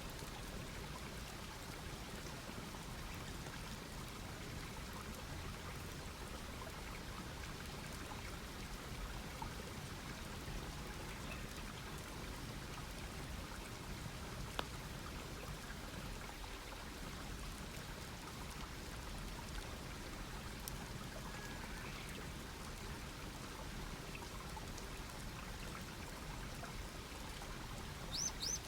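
Campfire crackling softly, with scattered small pops over a steady hiss and one sharper pop about halfway through. Right at the end a bird gives a quick run of five or six high chirps.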